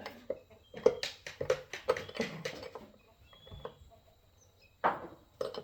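A quick run of sharp clicks and knocks about a second in, a few fainter ones after, and a short scraping burst near the end.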